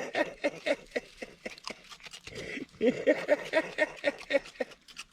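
Raccoons chewing and crunching dry food up close, a rapid run of wet smacking crunches with a brief pause about two seconds in.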